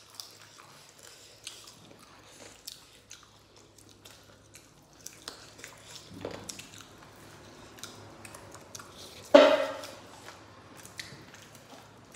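Close-up eating sounds: people chewing and biting rice and meat eaten by hand, with many small wet mouth clicks and smacks. One much louder mouth sound comes about nine seconds in.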